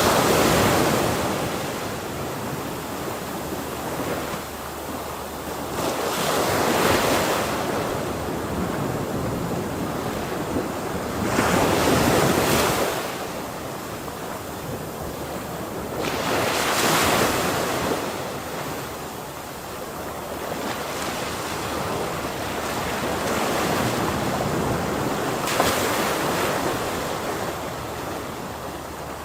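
Ocean waves crashing, five louder surges of surf at uneven intervals with a steady hiss of water between them.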